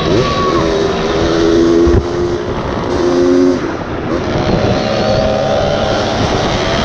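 Onboard sound of a racing dirt bike's engine at high revs, with other motorcycles' engines close by. The engine note builds and falls away sharply twice, about two seconds in and again about three and a half seconds in.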